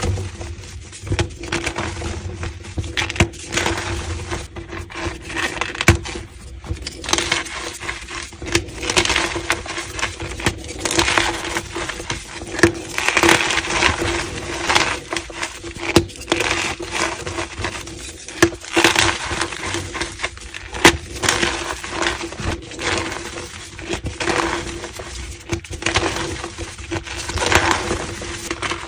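Blocks of gym chalk being crushed: repeated dry crunches and crumbling breaks, about one every second or so.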